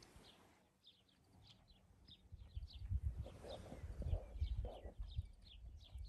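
Faint birdsong: small birds chirping over and over at a high pitch. A low rumble joins in about two seconds in.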